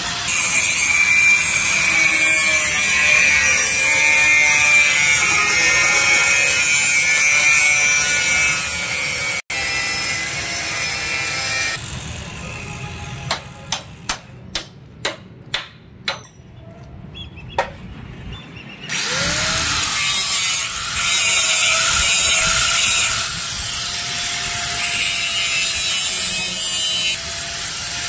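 Power tool running with a rasping, whining sound. It stops for several seconds, during which about eight sharp taps are heard, then starts again, its whine rising as it spins up and falling near the end.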